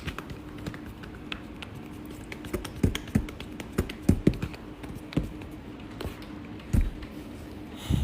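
A run of irregular light taps and clicks with several heavier knocks between about the third and seventh second, over a faint steady low hum.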